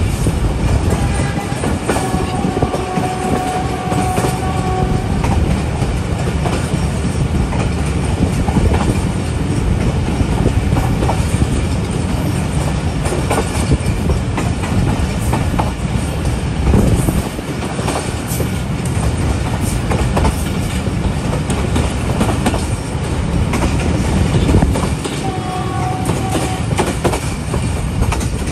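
Passenger train running along the track, heard from on board: a steady rumble with clatter of wheels over rail joints. Brief high steady tones come in twice, about two seconds in and again near the end.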